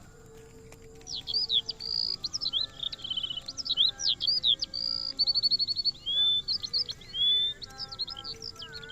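A songbird singing a long, varied song of quick whistled notes, slurred sweeps and rapid trills, starting about a second in, over faint background music.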